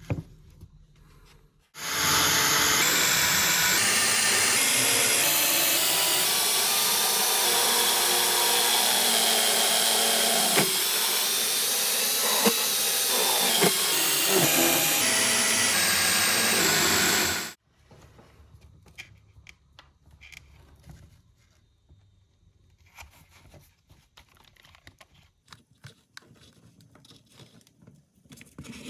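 Electric power tool motor running at speed for about fifteen seconds, its pitch sagging under load midway and recovering before it cuts off suddenly. Quiet clicks and rubbing of parts being handled follow.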